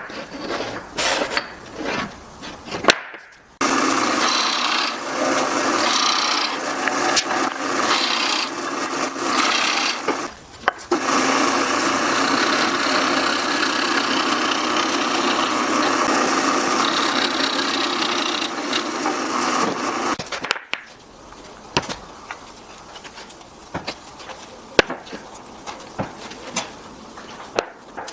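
Wood being worked by a power tool: two long spells of steady grinding noise, the first a few seconds in and the second after a short break, each starting and stopping abruptly. Short knocks and clicks of wood pieces being handled come before and after.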